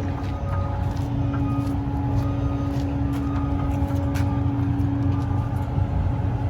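Semi-truck's diesel engine idling steadily, a low rumble with a steady hum over it.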